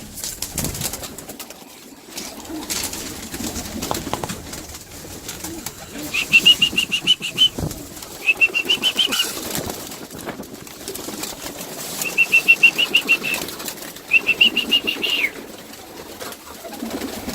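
Pigeons in a loft flapping their wings and cooing while they feed on corn, with scattered clicks and rustles. Four times a short, rapid, high-pitched trilled call sounds, each about a second long: the feeding call the birds know.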